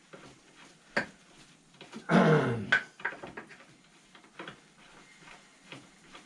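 Light metal clinks and knocks of tools working an inner tie rod off a steering rack, with one sharp click about a second in and a louder, grating sound lasting about half a second a little after two seconds in.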